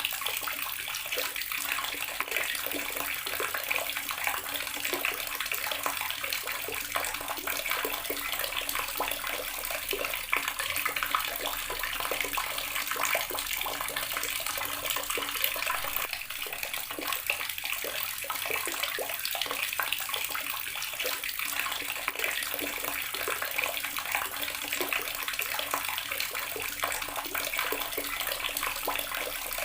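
Water running steadily from a garden tap and splashing, an unbroken hissing, spattering stream.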